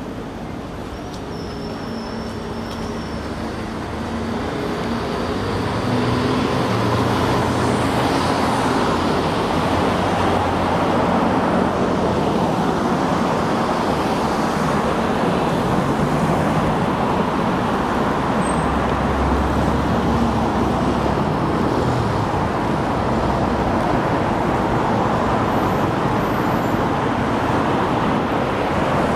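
Road traffic: a steady wash of car engine and tyre noise from passing vehicles, getting louder about five seconds in.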